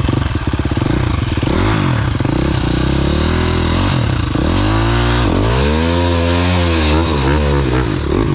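Dirt bike engine revving hard, its pitch falling and rising again several times as the throttle is worked.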